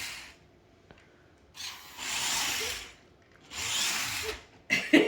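Toy RC off-road truck's electric motor and gears whirring in three short bursts about a second long each, as the truck is driven in spurts and stops between them.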